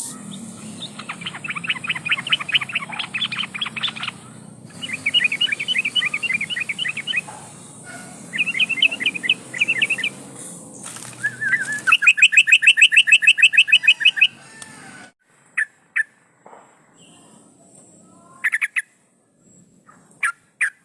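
Yellow-vented bulbul (trucukan) singing in three bursts of rapid, bubbly chattering. A rising note follows, then a fast, even run of notes lasting about two seconds. After that come a few short, separate chirps.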